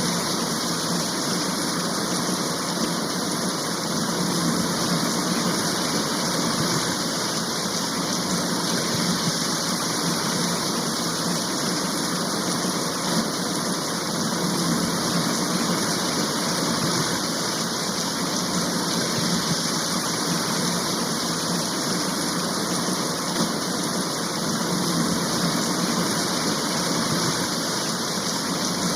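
Rain shower falling steadily: an even, unbroken hiss of rain.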